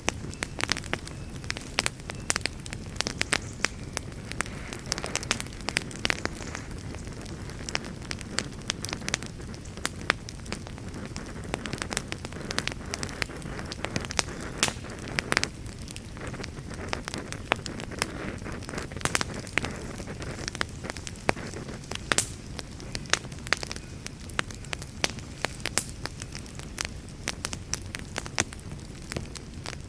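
Campfire burning, with a steady low rush of flames and frequent sharp, irregular crackles and pops of burning wood.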